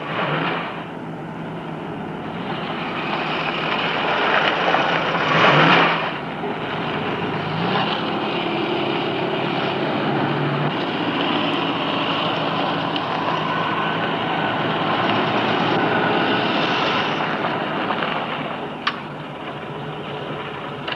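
Old sedan's engine running as the car drives, getting louder about five seconds in, with a sharp click near the end.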